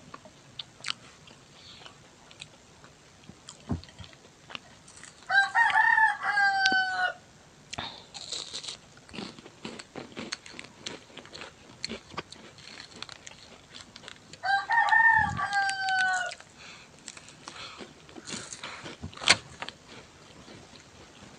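A rooster crowing twice, each crow about two seconds long and nine seconds apart, with small clicks and smacks of eating between.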